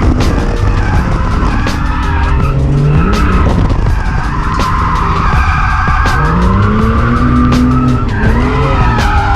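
Nissan R31 Skyline drift car with a swapped-in Ford Barra inline-six engine revving up and down through a drift, with tyres squealing and frequent sharp pops.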